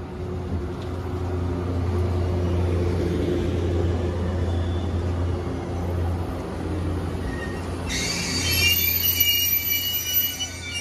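JR East E257 series electric limited express train moving slowly along the platform, its running noise and a steady low hum building. About eight seconds in, a high-pitched squeal of several tones joins it.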